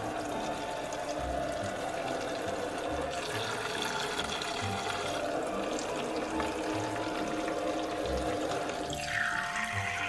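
Water streaming steadily from a toy kitchen sink's faucet and splashing into the plastic basin, under background music with a regular beat. About nine seconds in, the splashing changes sharply as the stream falls into a plastic cup held under the spout.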